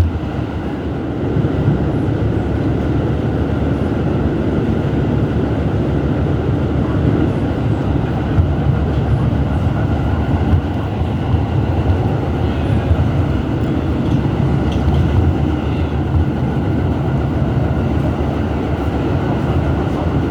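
R211S subway train running along the track, heard from on board: a steady rumble of wheels on rail, getting louder about a second in and then holding steady.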